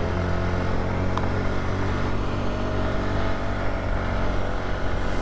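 Polaris ATV engine running at a steady speed while the quad is ridden, with a light click about a second in.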